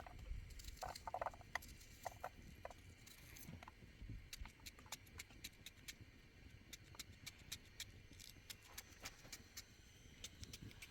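Faint, irregular light clicks and taps, a few a second, with a few short faint pitched sounds in the first three seconds.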